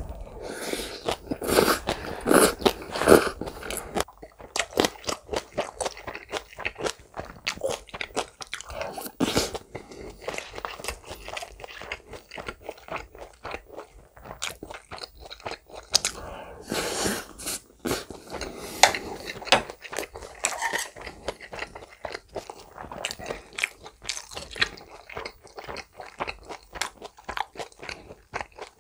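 Close-miked chewing of green onion kimchi and a chicken mayo rice bowl: many short, irregular wet smacks and crunches, loudest during a burst of chewing just after the start and again around halfway.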